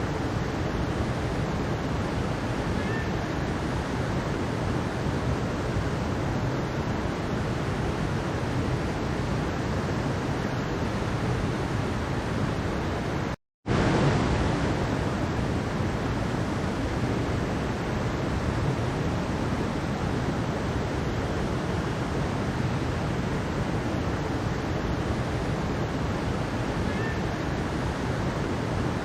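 Mountain stream water rushing steadily. The sound cuts out for a split second about halfway through, then comes straight back.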